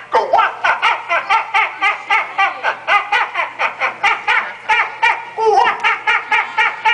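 A high-pitched puppet voice sobbing theatrically in fast, even pulses, about five a second, with a longer wavering wail about five and a half seconds in.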